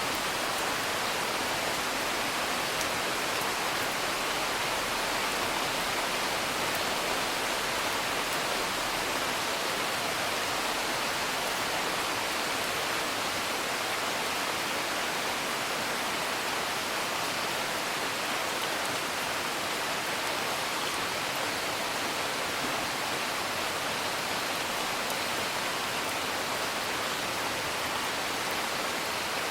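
Steady rain as an even, unbroken hiss, with a few faint crackles from a wood fire.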